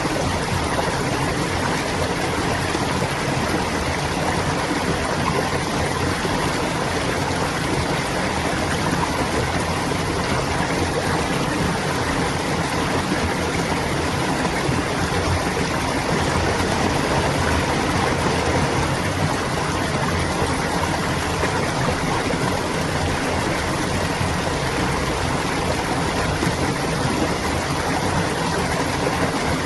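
Clear stream water flowing and babbling steadily.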